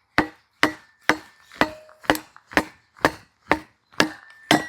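A small axe hammering a piece of pine down onto a Kindling Cracker's cast-iron wedge to split it, about ten even blows at roughly two a second. Each blow has a short metallic ring.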